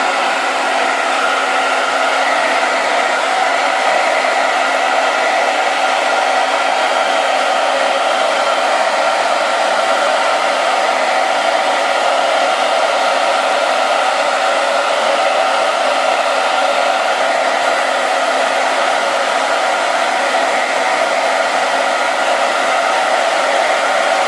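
Hair dryer running steadily: an even rushing blow with a steady motor hum underneath.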